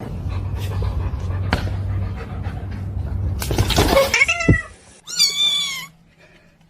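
A cat meowing: a short falling call about four seconds in, then a longer, louder wavering yowl about a second later. Before the calls there is a steady low hum with scattered clicks and rustling.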